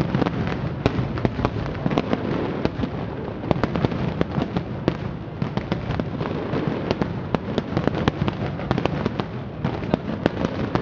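Fireworks display in a dense barrage: many shell bursts and pops overlapping, several sharp bangs a second with no pause.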